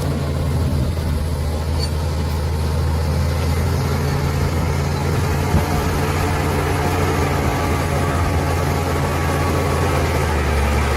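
Bulldozer's heavy diesel engine running steadily at an even pitch.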